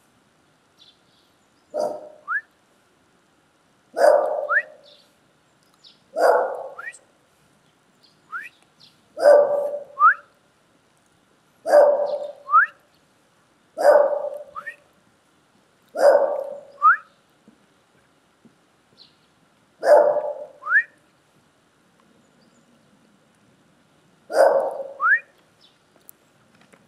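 A dog barking about nine times, one loud bark every two seconds or so with a longer pause near the end. Each bark is followed by a short, rising whistle.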